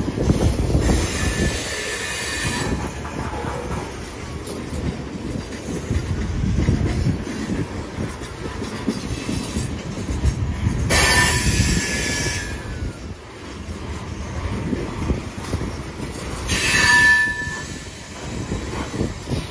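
Coal train's cars rolling past with a steady low rumble and wheel-on-rail clatter. Three short metallic squeals come from the wheels: about a second in, around the middle, and near the end.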